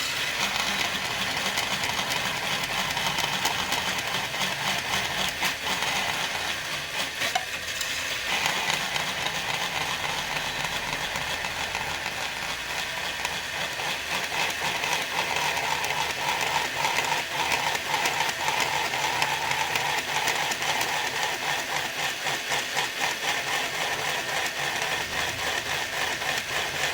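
Angle grinder cutting through plastic: a steady, continuous grinding noise with a fast rattle running through it.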